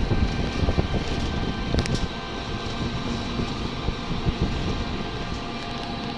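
Steady rumble of a moving vehicle with a faint constant whine, and a couple of light clicks about two seconds in.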